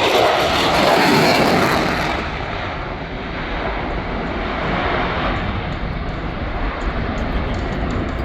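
Airplane engine noise from a low pass, loudest in the first two seconds and then fading to a steady rumble as the aircraft moves away.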